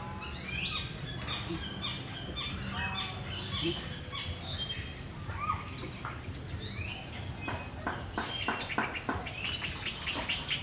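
Birds chirping and calling, with many short notes sweeping up and down in pitch. A quick run of sharp clicks comes about seven and a half seconds in and lasts about two seconds.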